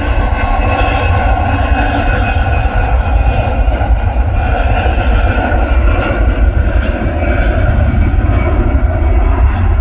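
Jet airliner engines running with a loud, steady drone and several steady whining tones.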